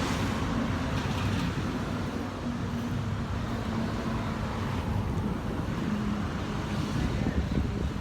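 Road traffic: a steady wash of passing vehicles with a low engine hum underneath.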